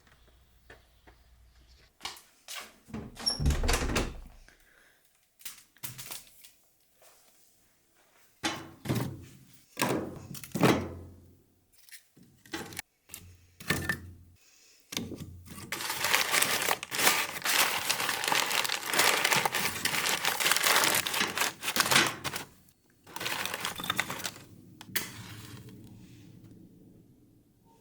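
Firewood being handled and laid for a fire: a run of wooden knocks and clunks, one heavy thump about three seconds in, then about six seconds of dense rustling crackle past the middle.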